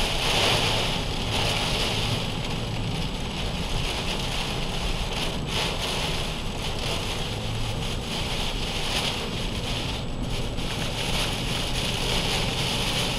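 Heavy rain hissing steadily on a moving car, with a low road and engine rumble beneath.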